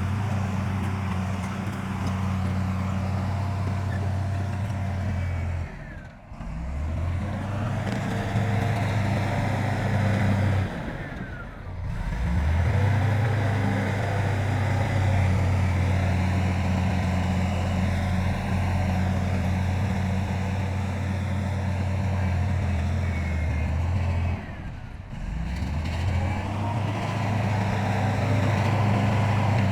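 Heavy diesel engines of earthmoving machinery, a bulldozer and dump trucks, running steadily with a deep, even note. The sound drops out briefly three times and comes back at a slightly different pitch.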